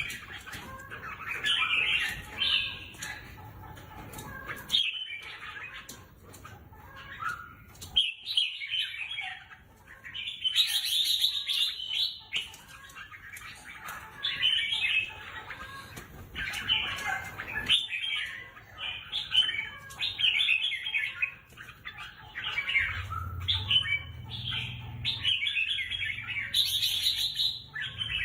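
Red-whiskered bulbul song: short, varied warbling phrases repeating every second or so. A low hum comes in near the end.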